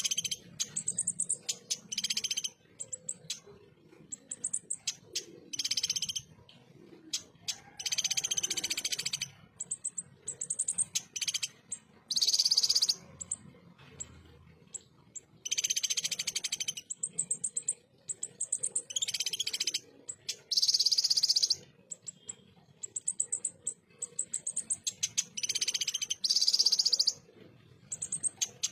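A kolibri ninja sunbird singing in repeated harsh, rapid-fire phrases: bursts of fast, high, close-set notes, each lasting up to about a second and a half, with short gaps and some brief high trills between them.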